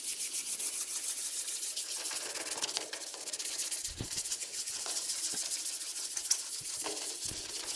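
Toothbrush loaded with toothpaste scrubbing a plastic taillight lens in quick, continuous strokes, a steady scratchy rubbing, to polish the fogged, oxidised plastic clear. A few light knocks come in the second half.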